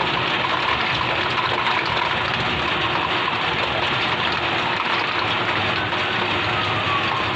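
Heavy rain pouring steadily over the running engines of fire trucks, with a faint siren wailing that falls in pitch near the end.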